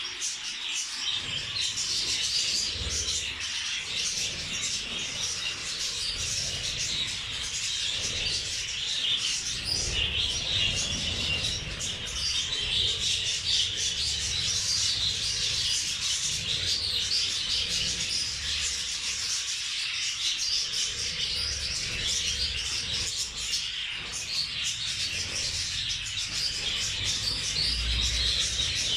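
A flock of budgerigars and zebra finches chattering and chirping nonstop, a dense, even twitter with a few soft low bumps underneath.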